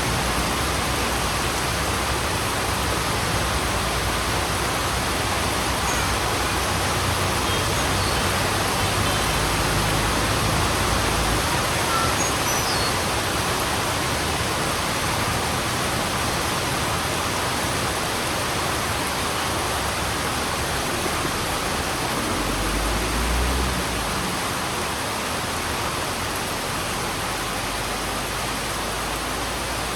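Heavy rain falling steadily, a dense even hiss. A low rumble sits under it for about the first third and swells briefly again about three quarters of the way through.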